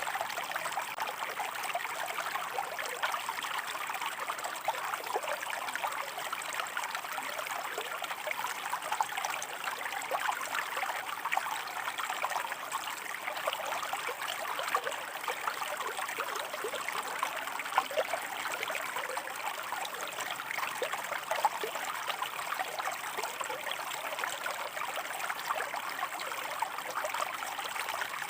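A shallow stream running and trickling over rocks: a steady bubbling, splashing flow with no change.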